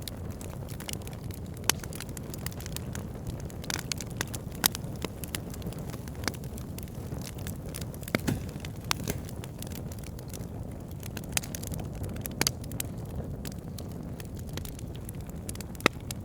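Burning wood logs: a steady low rush of flame with frequent sharp crackles and pops, a few of them louder than the rest.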